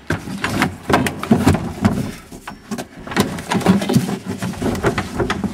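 Irregular knocks, bumps and scraping as a barn door is pushed shut and a tire is shoved against it to brace it.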